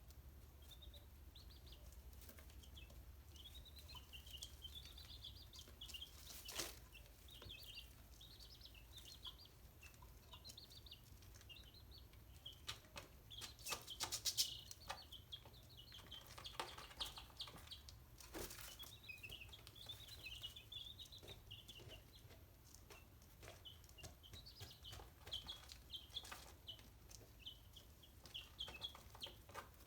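Young chicks peeping constantly in short, high calls, with scattered taps and knocks, the loudest cluster of them about halfway through.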